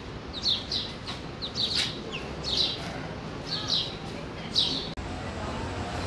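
A small bird chirping over and over: short, high, falling notes, mostly in pairs, about once a second. Near the end the sound cuts suddenly to a steady low rumble.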